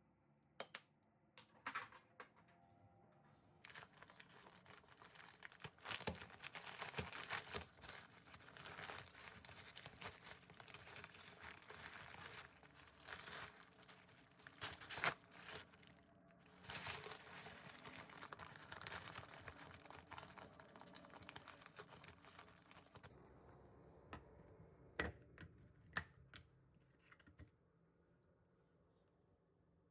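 Packaging crinkling and rustling as it is handled, in a long stretch of busy crinkles through the middle, with scattered sharp clicks and taps before and after.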